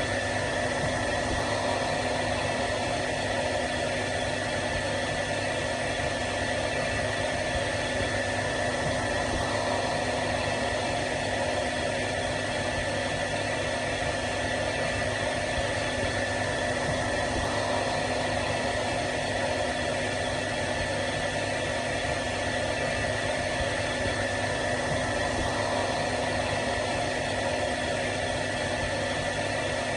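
Hair dryer running steadily: an even rush of blown air with a constant high motor whine, unchanging throughout.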